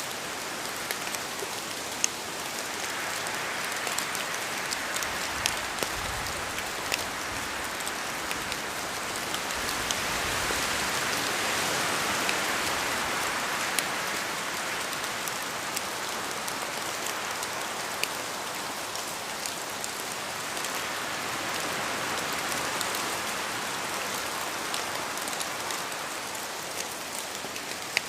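Steady rain falling, with scattered sharper drop ticks; the rain swells a little around the middle and eases again.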